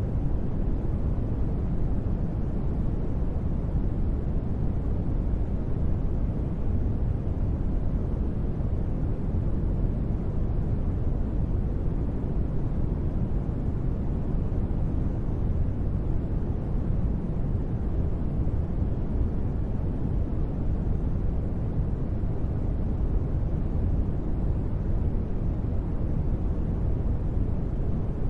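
Steady deep-space ambience noise: an even, unchanging rumbling hiss, heaviest in the low end and soft in the highs, with no events or rhythm.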